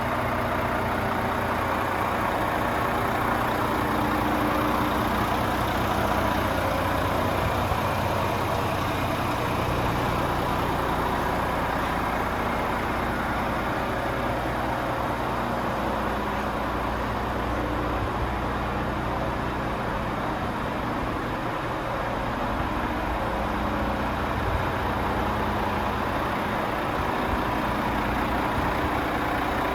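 Volvo FM 450 truck's turbocharged six-cylinder Euro 6 diesel engine idling steadily.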